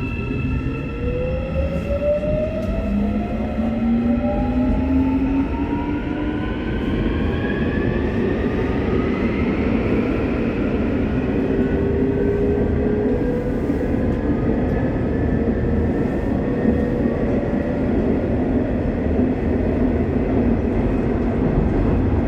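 Busan Metro Line 3 train's Hyundai Rotem IGBT inverter and traction motors whining, several tones rising in pitch together as the train accelerates. After about ten seconds it settles into steady running noise with rumble from the wheels and track.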